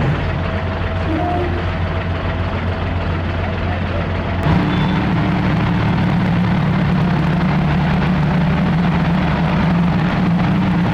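Heavy-equipment diesel engine running steadily. About four seconds in, the sound changes abruptly to a louder, steadier low hum.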